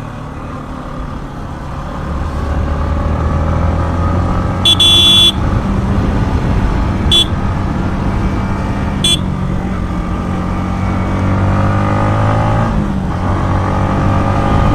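Yamaha MT-15's single-cylinder engine running under load on the move. A horn sounds three times: a half-second blast about five seconds in, then two short toots about two seconds apart. Near the end the engine note drops briefly and picks up again.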